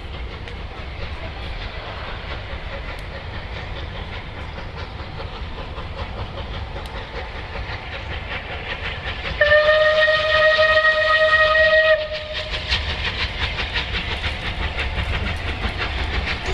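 Steam locomotive on the move: a steady low rumble, then one long, steady whistle blast of about two and a half seconds a little past halfway, the loudest sound, followed by a fast, even clatter from the passing train.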